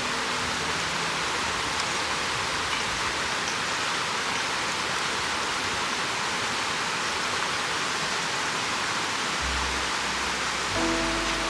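A steady hiss with a few faint ticks. Background music with held notes comes in near the end.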